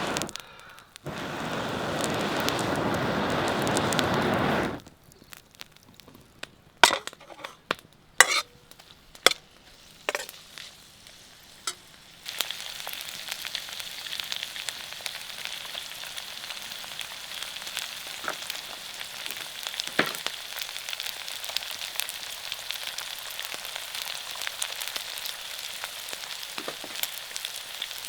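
Food frying in a wok over a wood fire: a steady sizzle with small crackles sets in about twelve seconds in. Before that, a loud rushing noise fills the first few seconds, followed by several sharp clinks and knocks.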